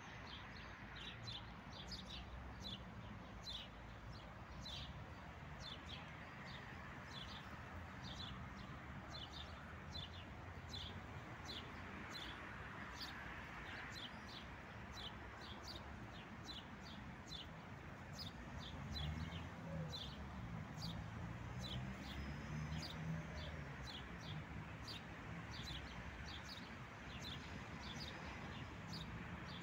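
A small bird chirping over and over, short chirps at about two a second, over a low background rumble.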